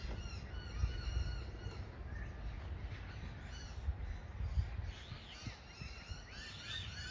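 Many birds calling at once, a chorus of short overlapping chirps and squawks, over a low rumble of wind on the microphone.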